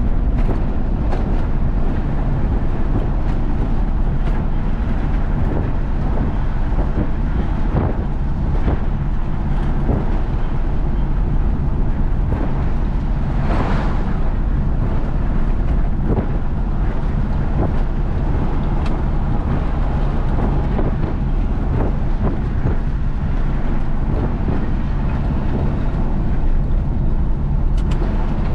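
Isuzu FRR90 truck's diesel engine running steadily at road speed, with tyre and road noise and scattered small rattles; a brief louder rush of noise comes about halfway through.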